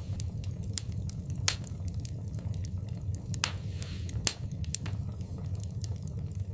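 Wood fire burning in a fireplace: a steady low rumble of the flames with irregular sharp crackles and pops, the loudest about a second and a half in and again past four seconds, and a brief soft hiss.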